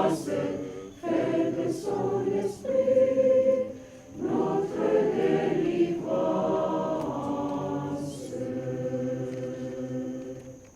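Choir singing the closing phrases of a hymn in French, ending on a long held chord that fades away near the end.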